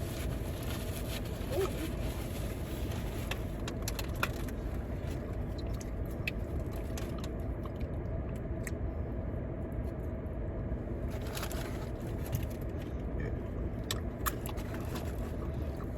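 Steady low rumble, like a car's cabin with the engine running, under scattered small clicks and crinkles of eating and handling food packaging.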